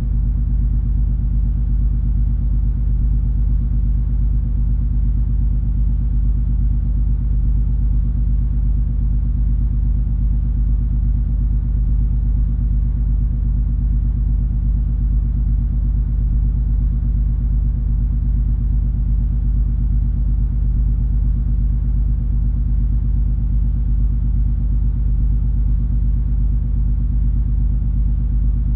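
Steady low rumble and drone of the cruise ferry MS Color Magic under way, its engines giving a few constant low hum tones under an even, fainter hiss.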